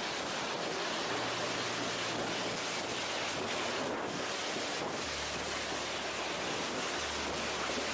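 Strong wind from a nearby tornado blowing steadily, with a dense rushing noise and wind buffeting the microphone.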